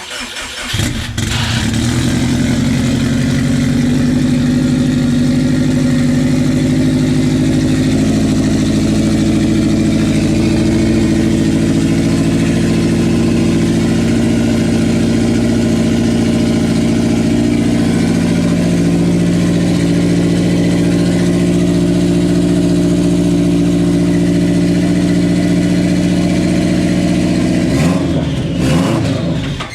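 Freshly built Subaru STI turbocharged flat-four engine firing up on its first start and running at a steady fast idle, then dropping in pitch and shutting off near the end.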